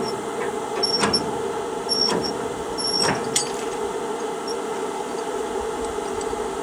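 Ratchet chain binder being cranked to loosen a trailer tie-down chain: short ratchet clicks about once a second for the first three seconds or so, then they stop, over a steady hum.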